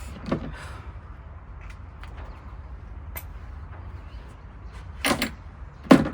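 A few short knocks and clunks of tools and parts being handled, the loudest a double knock and then a single sharper knock near the end, over a steady low hum.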